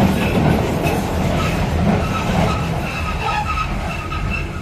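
Docklands Light Railway train running, heard from inside the carriage: a steady low rumble, with a thin high whine coming in about a second and a half in.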